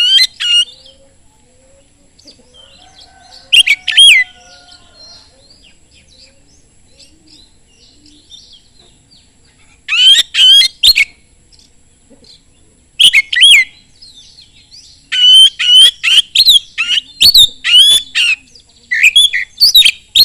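Oriental magpie-robin (kacer) singing loud, rapid whistled phrases in short bursts with pauses between, ending in a long run of phrases over the last few seconds. Fainter chirps from other birds sound in the gaps.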